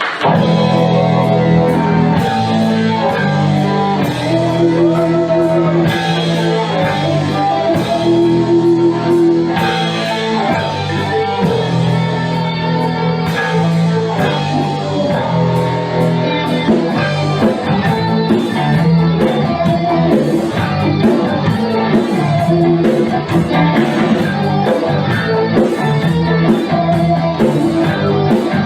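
A rock band playing: guitar melody lines and held notes over a drum kit, with no voice.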